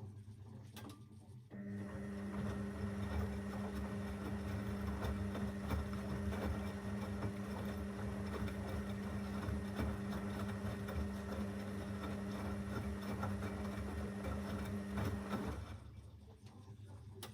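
Zanussi FL984CN washing machine runs with a steady hum and a churning rumble. The sound starts suddenly about a second and a half in and stops abruptly near the end.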